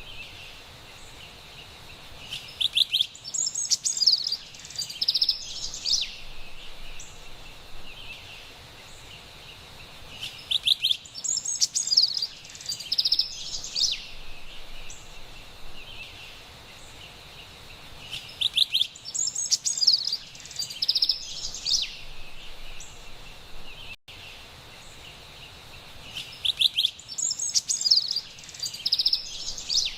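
Carolina wren singing: four bouts of rapid, rolling repeated phrases, each about three seconds long, coming about every eight seconds, over a steady high hiss of forest background.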